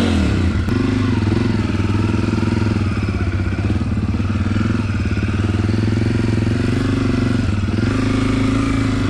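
Off-road vehicle engine idling steadily, its revs dropping to idle right at the start and then holding even.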